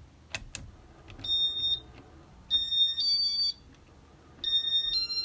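Electronic beeps from a ceiling fan control: a single high beep, then a two-note beep, then a run of beeps stepping between nearby pitches, with two faint clicks at the start.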